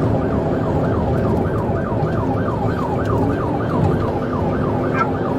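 Police car siren on its fast yelp setting, sweeping up and down about four times a second, heard from inside a patrol car in pursuit over its engine and road noise.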